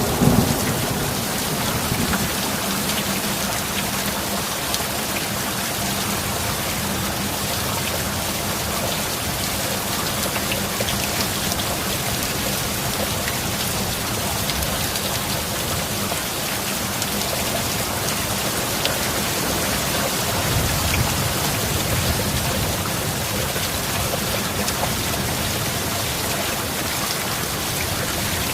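Steady heavy rain falling, a dense even hiss of drops. A thunder rumble dies away at the start, and a fainter low rumble swells briefly about twenty seconds in.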